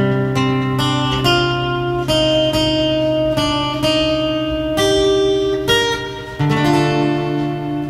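Instrumental acoustic guitar music: a melody of held notes played over strummed chords and a sustained bass.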